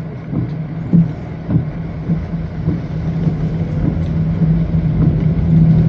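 Car cabin sound while driving on a rain-wet road: a steady low engine and road drone with an even hiss of tyre and road noise, and a few soft knocks.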